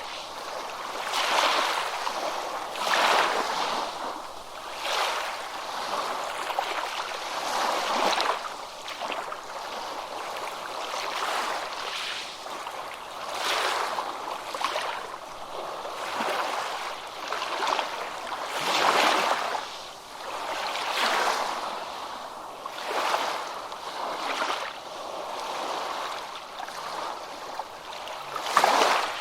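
Small ocean waves washing onto a beach in quick, repeated surges of hiss and splash, about one every couple of seconds, with little deep rumble.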